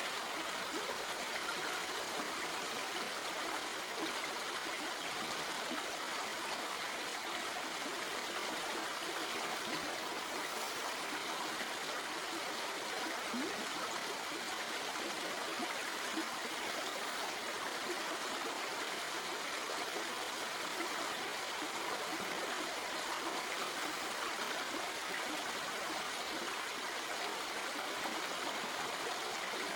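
Stream water flowing and splashing over rocks, a steady rushing with a light burble.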